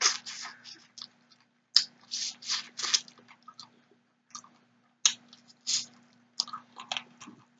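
Close-miked chewing and mouth smacking of fried tilapia eaten with the fingers, coming in three short bursts of sharp clicks with pauses between.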